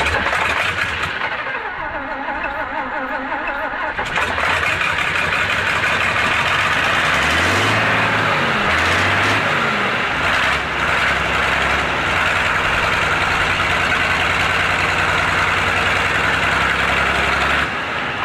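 Tatra truck engine running, revved twice in quick rising-and-falling bursts about eight seconds in, then settling to a steady idle.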